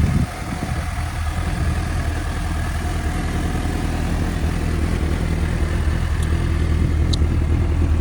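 2017 Suzuki GSX-S750's inline-four engine running steadily through its stock exhaust. The level dips just after the start, then slowly builds.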